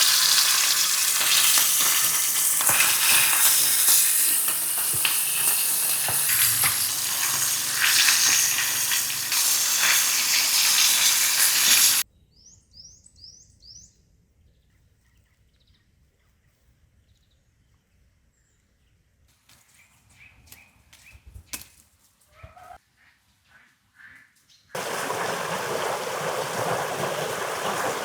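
Steak sizzling loudly over a campfire, cutting off abruptly about twelve seconds in. A few quick bird chirps follow, then a quiet stretch with scattered clicks and knocks, before a second, softer stretch of sizzling near the end.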